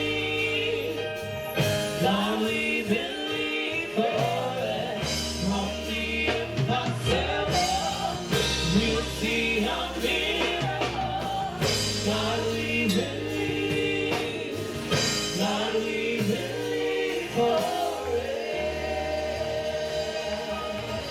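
A live gospel praise team singing a worship song with a band: voices over a sustained bass line, keyboard and drums.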